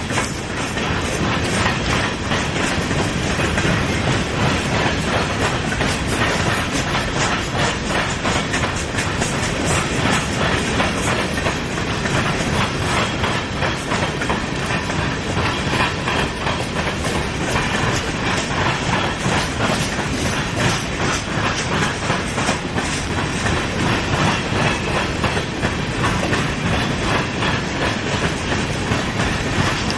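Freight train of grain cars rolling past, steel wheels clicking over the rail joints in a steady clickety-clack with a continuous rumble.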